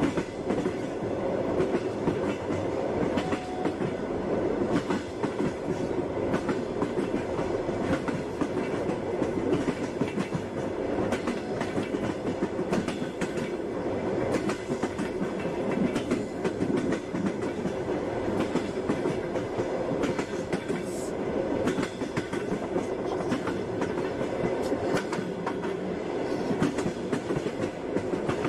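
Passenger train running steadily: a continuous rumble with the wheels clacking over rail joints.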